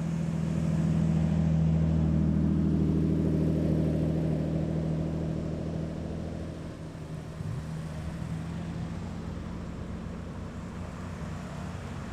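A car engine running at a steady low pitch as the car drives slowly past, loudest over the first few seconds and then fading away.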